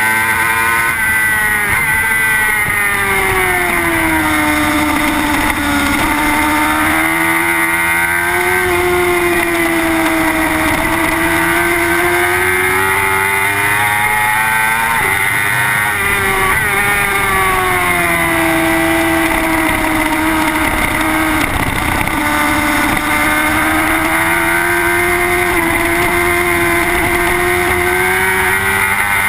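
Suzuki GSX-R superbike's inline-four engine at racing speed, its pitch repeatedly climbing under acceleration and dropping on braking and downshifts for corners.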